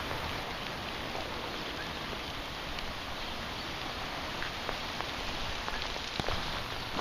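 Steady rain falling, a continuous hiss with a few sharper drips tapping through it.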